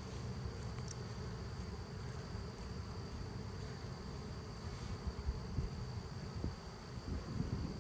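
Honeybee swarm buzzing: a steady, dense low hum of many bees close to the microphone, with a few uneven louder bumps in the last few seconds.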